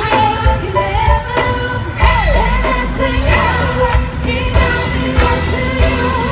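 Live gospel band playing loudly, with singing voices sliding over a heavy bass and drums.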